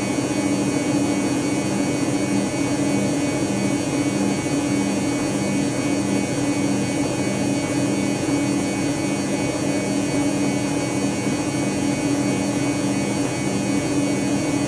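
Dyson Contrarotator CR01 washing machine running steadily in its final spin at 800 rpm. A steady motor hum carries a lower tone that pulses about twice a second.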